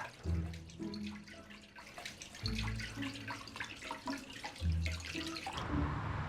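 Water running and splashing from a tap, as in washing hands at a sink, over soft background music. The splashing stops about five and a half seconds in.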